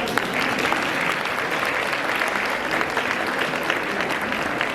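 Audience applauding: steady, dense clapping from a hall full of people.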